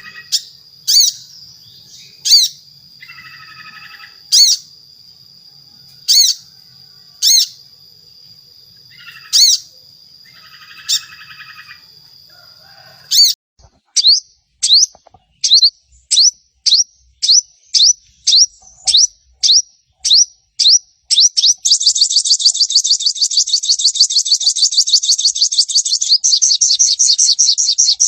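Sogon (sogok ontong sunbird) song: loud, sharp, high whistled notes about once a second, with short buzzy chatters between them. Halfway through, the notes come faster, two or three a second. Near the end they run into a dense rapid chatter.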